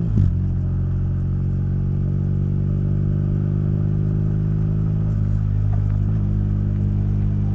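Motorcycle engine idling steadily, with one short knock about a quarter second in.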